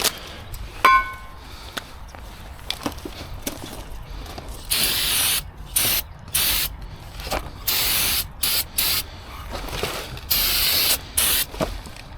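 Aerosol can of brake cleaner sprayed in about six short blasts of hiss, each up to about a second long. A short, sharp beep about a second in is the loudest moment.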